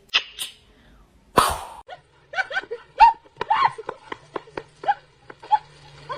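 A small dog yipping: a quick series of short, high yips, about three or four a second, starting about two seconds in, after a single sharp bark-like burst.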